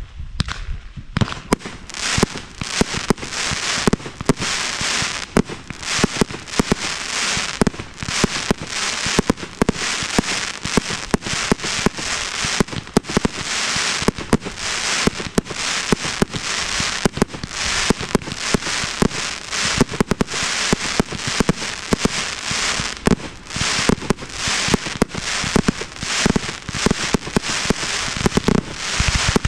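Display fireworks at close range from the firing line: a dense, continuous barrage of overlapping bangs and crackles, many reports a second with no let-up.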